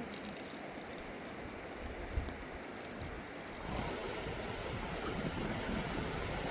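Steady rushing of a fast mountain river, growing louder a little past halfway, with a single brief knock about two seconds in.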